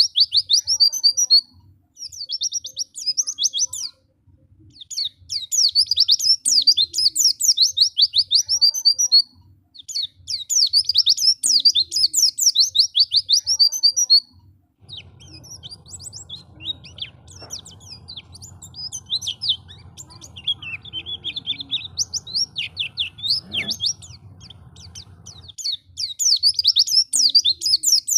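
White-eye (pleci) singing: fast twittering phrases of high chirps, each a few seconds long, repeated with short pauses. About halfway through the song gives way to softer, scattered calls over a low hum for about ten seconds, then the loud twittering phrases resume.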